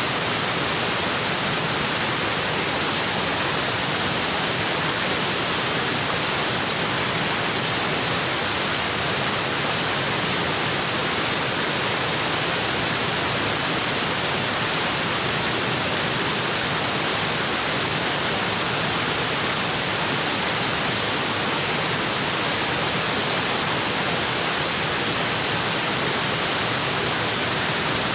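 Waterfall: water falling steadily onto rocks, a constant even rush of water.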